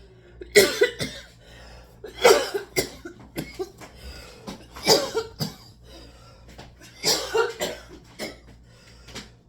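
A woman coughing hard in about four separate fits a couple of seconds apart, with breathing between them. It is a choking cough while eating, which she puts down to sucking in spaghetti with too much air.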